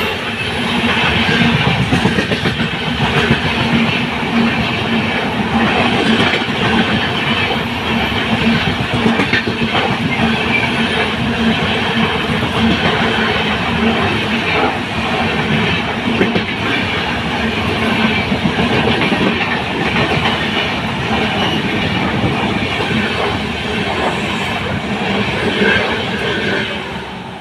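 Express passenger train passing through a station, its coach wheels clattering steadily over the rail joints, the noise easing off near the end as the last coaches go by.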